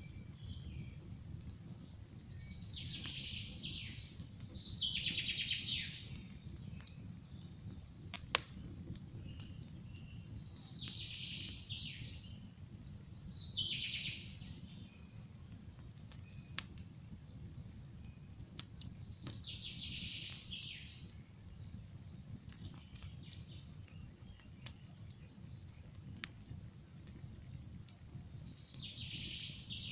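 Wood campfire crackling, with a few sharp pops over a steady low rumble, while a songbird sings short trilling phrases every few seconds.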